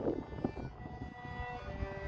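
A solo instrument playing the national anthem in slow, held notes that step down in pitch, starting about two thirds of a second in after a burst of low noise dies away.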